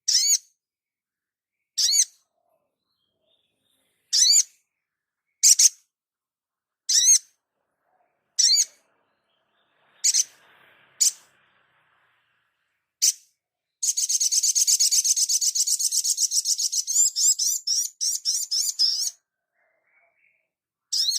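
A songbird calling: short, high, wavering calls repeated every second and a half to two seconds, then a fast chattering trill lasting about five seconds from around fourteen seconds in, and one more call at the end.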